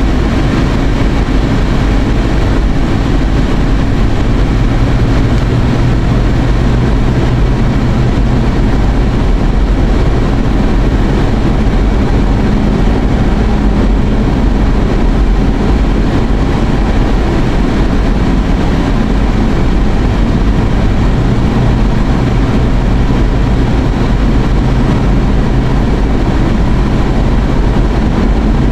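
Steady road and engine noise inside a moving car: a constant low rumble with a faint engine hum that drifts slightly in pitch.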